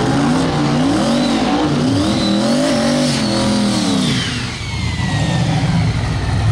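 Big single-turbo C6 Corvette V8 revving up and down in quick repeated blips during a burnout. About four seconds in the revs drop to a steady lower run, and a high turbo whistle glides down as it spools off.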